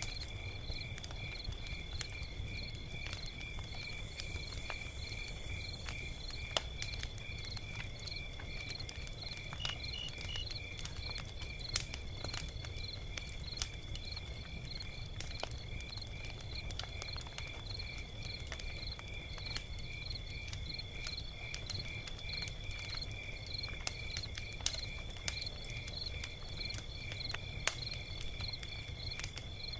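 Log fire crackling, with scattered sharp pops over a low steady rumble. High insect chirping, like crickets, pulses steadily behind it.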